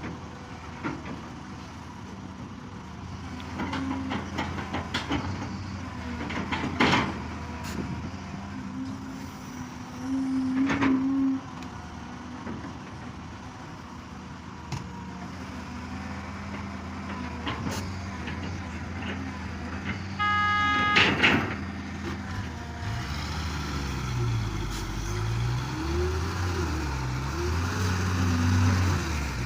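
Excavator's diesel engine running as it works, with scattered knocks and clanks. About twenty seconds in there is a brief tone. In the last few seconds the engine pitch rises and falls repeatedly under load.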